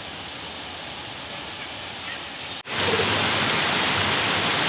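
Steady rushing noise of flowing water. It cuts out for an instant about two and a half seconds in, then comes back louder.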